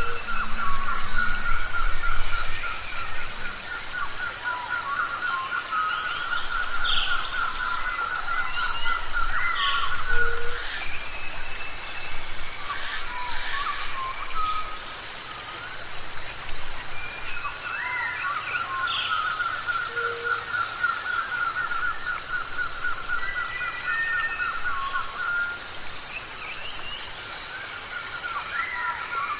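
A mix of birds chirping and whistling, with short rising and falling calls over a steady, rapid trill held at one pitch for several seconds at a time; the trill stops about ten seconds in, returns for a few seconds, and starts again near the end.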